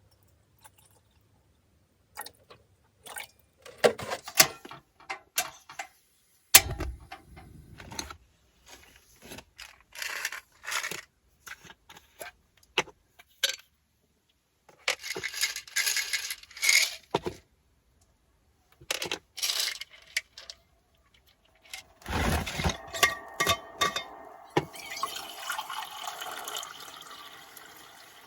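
Irregular clicks and clinks of small objects and containers being handled, with stretches of liquid being poured, the longest over the last few seconds.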